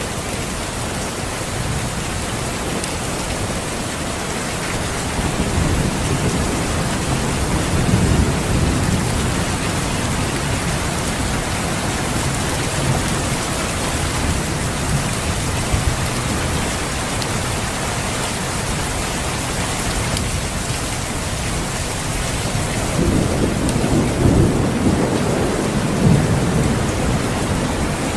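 Steady heavy rain, with low thunder rumbles swelling up twice, about a quarter of the way in and again near the end.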